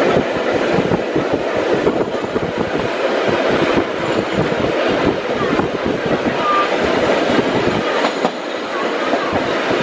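The 1903 BU Elevated subway car running along the line, heard from on board: a steady rumble with a dense, irregular clatter of wheels over rail joints, and a faint brief wheel squeal once or twice.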